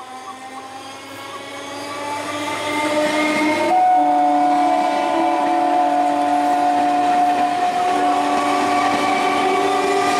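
Conventional EMU local train approaching and passing close at speed. The loudness builds over the first few seconds, and a set of steady tones from the train drops in pitch as the front passes about four seconds in. The rumbling run of the coaches follows.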